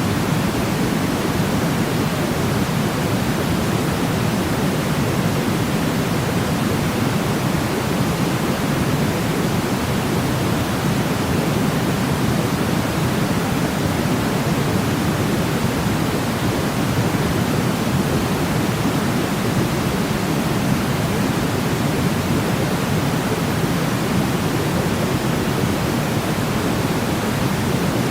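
Steady white-noise sleep sound: an even, unchanging hiss weighted toward the low end, with no breaks or events.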